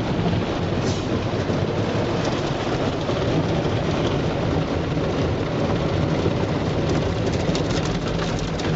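Steady low mechanical noise of an automatic car wash heard from inside the car, with a few faint clicks near the end.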